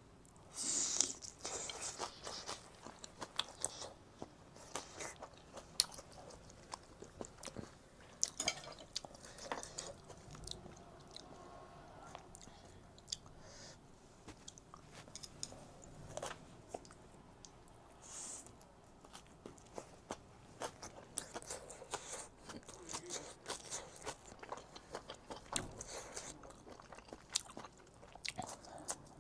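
A person chewing and biting food close to the microphone: crunchy bites and chewing with many sharp clicks at an irregular pace.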